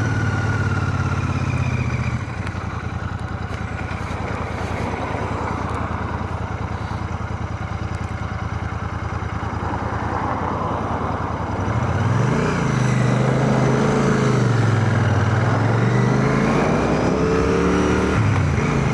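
Royal Enfield Shotgun 650 parallel-twin engine running on the move, with wind rush, heard from inside a full-face helmet. The engine eases off about two seconds in; from about twelve seconds in its pitch rises, dips and rises again as the bike picks up speed.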